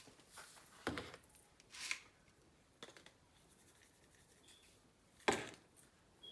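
Scattered kitchen handling noises as chicken wings are seasoned: a few short scrapes and clicks, the loudest a sudden knock about five seconds in.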